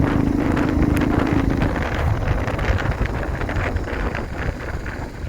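Royal Enfield Thunderbird 350X's single-cylinder engine running through a Red Rooster Performance aftermarket exhaust while riding in fourth gear, with wind noise on the microphone. The engine sound dips briefly near the end.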